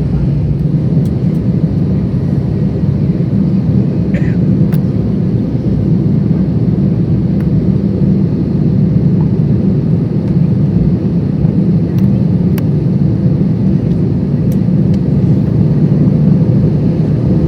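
Steady low cabin drone of an Airbus A320 on the ground after landing, with a few faint ticks.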